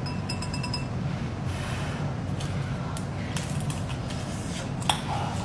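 Faint clicks and mouth sounds as a deep-fried soybean hornworm is bitten and chewed, over a steady low hum. A quick run of small ticks comes near the start, and a sharper click near the end.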